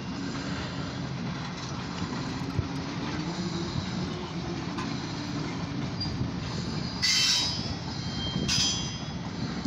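A freight train of covered grain hopper cars rolling past with steady rail noise, heard from inside a car; two short wheel squeals cut in about seven and eight and a half seconds in.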